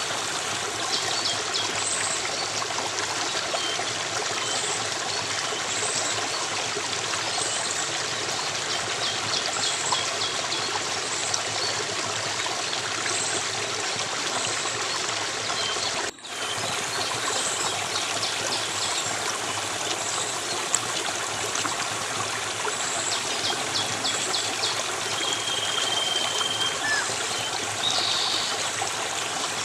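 Water running steadily in a stream, with small birds chirping high above it every second or two in short calls and trills. The sound cuts out for an instant about halfway through.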